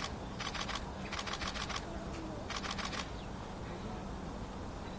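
Small birds at a water dish: short bursts of rapid, rattling clicks, four of them in the first three seconds.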